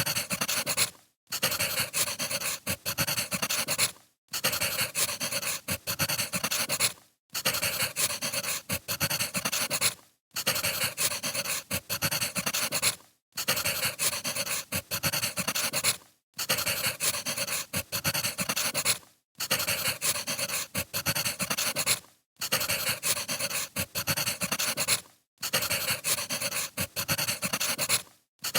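Crackling wood fire, dense with small pops and snaps. It is a short recording looped over and over, cutting out for a split second about every three seconds.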